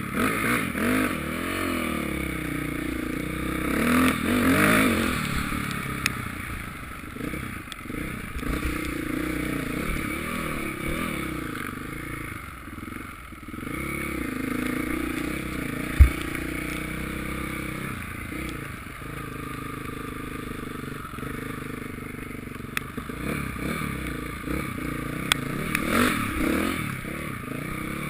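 Motocross motorcycle engines revving, the pitch rising and falling again and again as the bikes work the throttle, loudest about four to five seconds in. A single sharp thump about halfway through.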